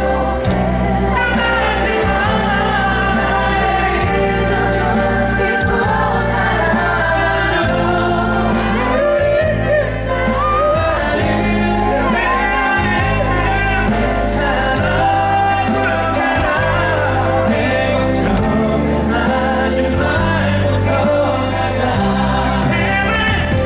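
Live pop-ballad performance at a stadium concert: a band plays steadily under loud singing voices, with the reverberant sound of a big venue.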